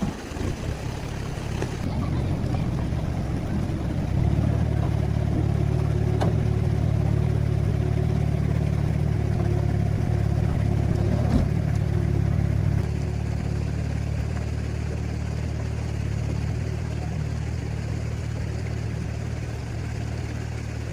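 An engine running steadily with a low, even hum. It gets louder about four seconds in and eases back around thirteen seconds.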